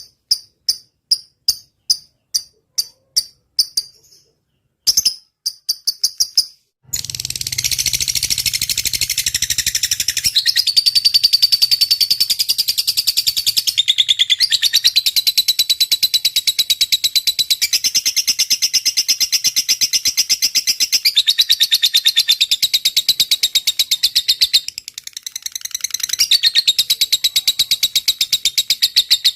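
Lovebird's long chattering trill ('ngekek panjang'): a rapid, unbroken run of high notes lasting over twenty seconds, stepping up and down in pitch every few seconds and dipping briefly near the end. Before it there is a steady series of evenly spaced high chirps, about three a second, which stop about four seconds in.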